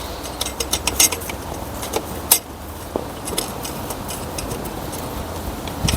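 Irregular light metallic clicks and clinks of manifold bolts being picked up and fitted by hand, over a steady low hum.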